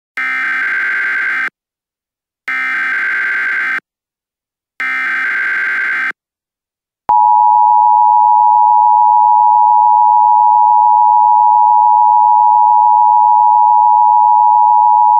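Emergency Alert System header: three bursts of SAME digital data tones, each about a second and a half long and about a second apart. About seven seconds in, the loud steady two-tone EAS attention signal starts and holds.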